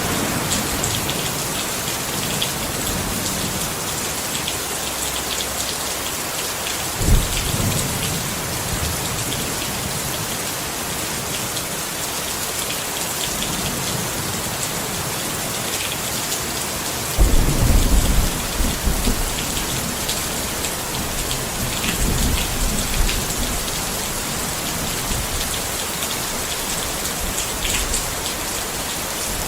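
Steady rain falling on a tent, with thunder: a short low rumble about a quarter of the way in, a louder, longer peal just past the middle, and a weaker rumble a little later.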